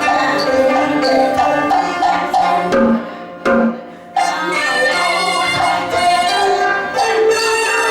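Teochew opera ensemble playing instrumental music, pitched melody over regular wood-block beats. The music drops away about three seconds in and starts again loudly about a second later.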